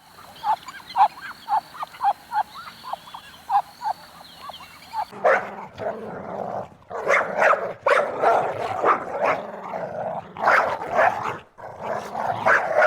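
Dog barking: first a run of short, evenly spaced yips, then about five seconds in, louder and faster barking in clusters.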